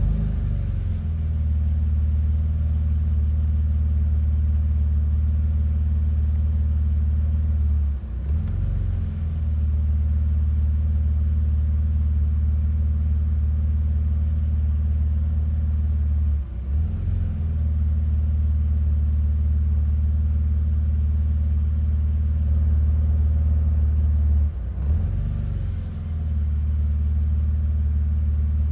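BMW Z3 engine idling cold and rough. About every eight seconds the idle stumbles: the engine speed sags briefly, then recovers to a steady idle.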